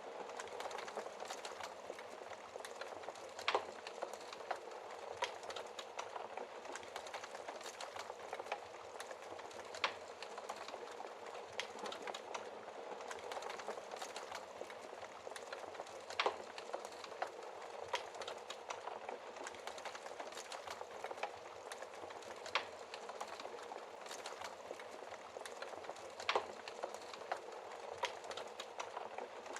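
Wood fire in a fireplace crackling steadily over a soft hiss, with a sharper, louder pop every few seconds.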